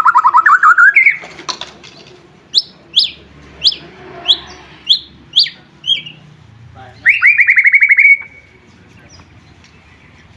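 White-rumped shama singing: a fast rising trill, then a run of sharp down-slurred whistles about two a second, then another fast trill about seven seconds in.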